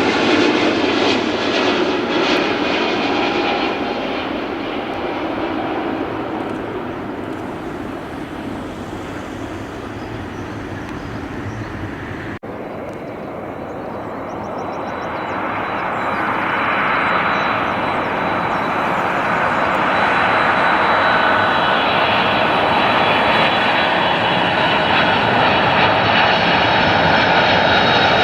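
Airliner engine noise fading away over about twelve seconds, then a sudden brief break, after which another aircraft's engines grow louder with a steady high whine.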